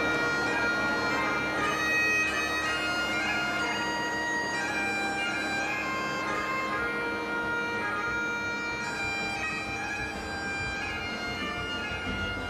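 Bagpipes playing a tune over a steady, unbroken drone.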